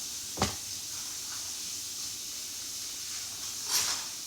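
Steady background hiss, with one sharp click about half a second in and a short soft burst of noise near the end.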